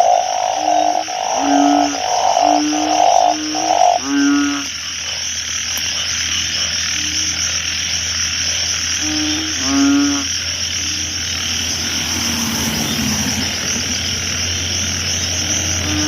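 Banded bullfrogs (Kaloula pulchra) calling: short low calls about once a second for the first four seconds, then a couple more about nine to ten seconds in, over a steady high-pitched hiss.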